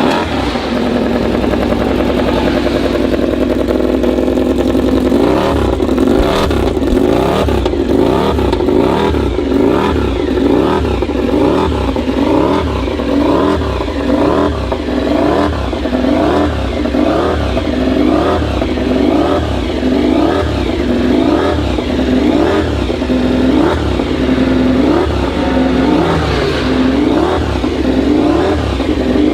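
MotoGP racing motorcycles running at high revs on track. After the first few seconds their engines climb in pitch and drop back at each gear change, over and over, several bikes overlapping.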